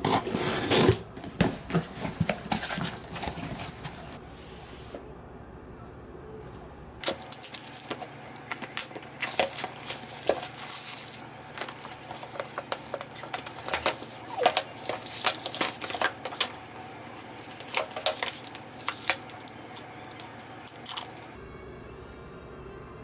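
Objects handled close up: irregular clicks, taps and rustling, with short tearing or crinkling sounds, in three separately edited stretches.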